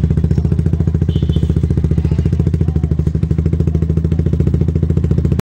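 Hero Xtreme 125R's single-cylinder engine idling steadily through an aftermarket racing exhaust, with an even, rapid exhaust pulse; it stops abruptly near the end.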